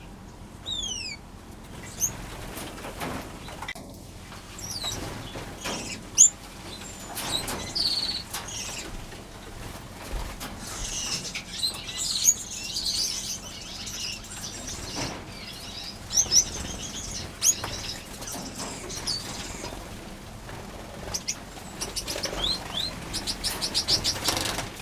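Finches in a crowded aviary fluttering and calling: wing flaps and perch clicks with short high chirps and falling call notes, and a quick run of repeated notes near the end.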